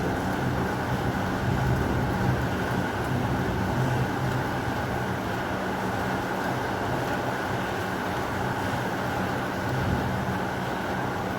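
Heavy rain falling steadily, an even rushing hiss with no thunderclap.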